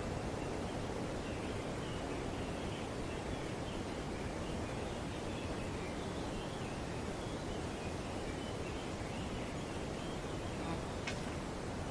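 Wind through tree foliage, a steady rustling hiss, with faint bird chirps in the background and a short sharp click about eleven seconds in.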